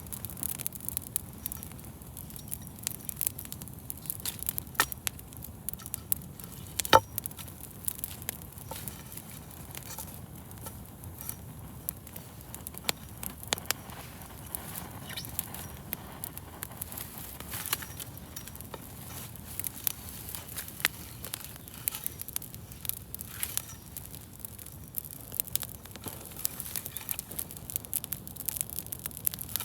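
Wood campfire burning, with a steady scatter of small crackles and pops and one sharper, louder snap about a quarter of the way in.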